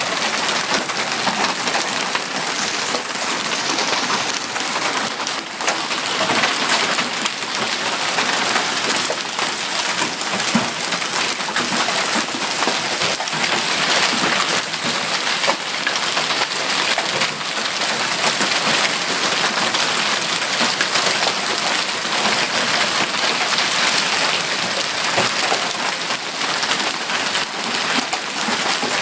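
Hailstorm: hail and rain pelting down, a steady dense hiss full of countless small hard impacts, with no let-up.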